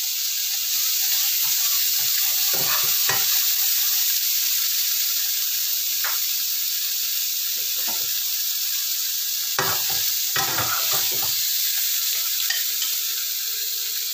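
Green beans and chicken sizzling steadily in oil in a nonstick wok. A metal ladle scrapes and knocks against the pan now and then as the food is stirred and scooped out.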